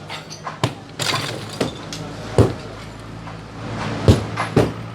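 Demolition of a roadside shop: about six sharp crashes and clinks of breaking material, irregularly spaced, over the steady low running of a machine's engine.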